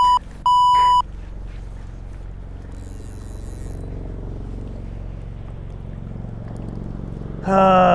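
Two short censor bleeps in the first second cover an exclamation. After them a steady low engine drone runs, typical of a motorboat or vehicle motor, and a loud held voice cuts in near the end.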